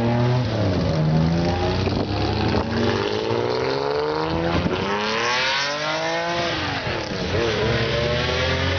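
Classic Nissan car engine with a loud aftermarket exhaust accelerating hard, its pitch rising to high revs and dropping several times as it is pushed through the gears.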